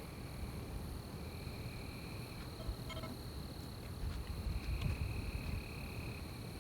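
Night-time forest insects trilling: one high, steady trill throughout and a lower trill that stops and starts, over a low rumble. A short pitched call sounds about three seconds in.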